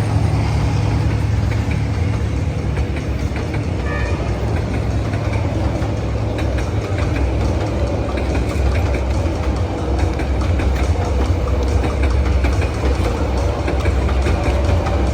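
Vietnam Railways diesel train running, a steady low engine drone with rail noise above it.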